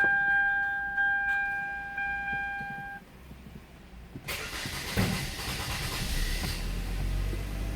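A car's warning chime dings about once a second, then stops. About a second later the Hyundai Sonata's LPi engine cranks and starts, settling into a steady low idle.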